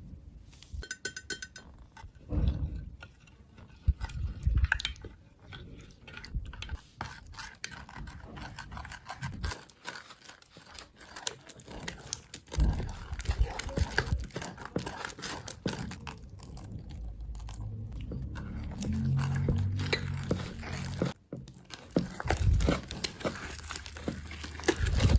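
Slime being squished and kneaded by hand: a dense run of small wet clicks, pops and crackles, with irregular heavier presses.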